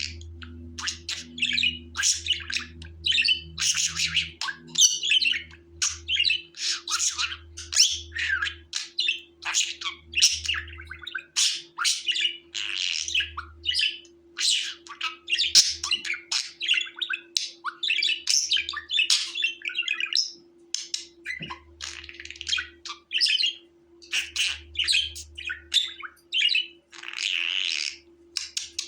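Budgerigar chattering: a fast, unbroken stream of short chirps, warbles and squawks. A faint low hum comes and goes underneath.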